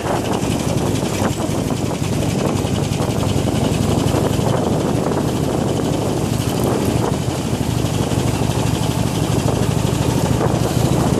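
Harley-Davidson Iron 883's air-cooled V-twin engine running steadily as the motorcycle is ridden, its firing pulses rapid and even.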